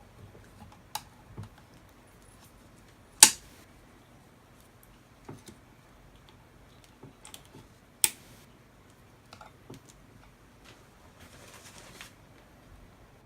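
Scattered light clicks and taps of metal engine parts and hand tools being handled on a workbench during engine bottom-end assembly, with two sharp metallic clanks, about three and eight seconds in, and a short rustle near the end.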